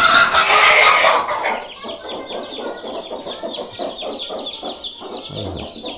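Chicks peeping continuously in many short falling chirps, with hens clucking among them. A loud, harsh burst fills the first second and a half.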